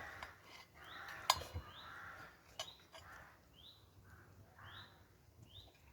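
Wild birds calling: a small bird repeats a short rising chirp about once a second, with lower, rougher calls in between. One sharp click sounds a little over a second in.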